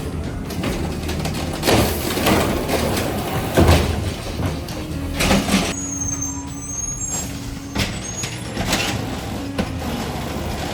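Garbage truck engine running steadily, with several sharp hissing or banging strikes. A steady mid-pitched tone is held for a few seconds past the middle.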